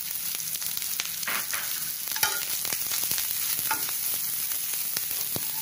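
Chopped onion, garlic, ginger and green chilli sizzling in hot oil in a pan, with scattered clicks and scrapes of a steel ladle stirring them.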